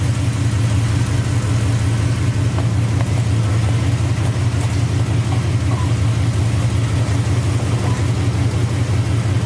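Off-road vehicle's engine idling steadily, a constant low hum.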